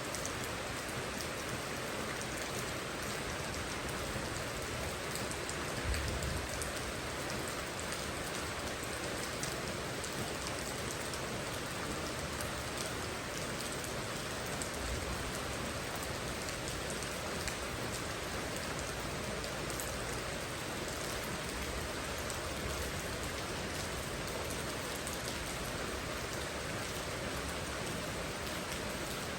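Steady rain falling, an even hiss of drops pattering on surfaces. There is a brief low thump about six seconds in.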